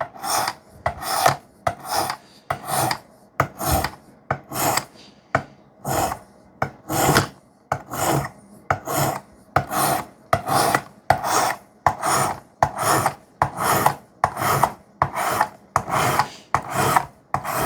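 A 320-grit diamond sharpening stone on a Work Sharp guided sharpener, rasping along the edge of a CPM 3V steel knife blade with light pressure. It makes a steady run of short, scraping strokes, a little under two a second, with a brief pause about five seconds in.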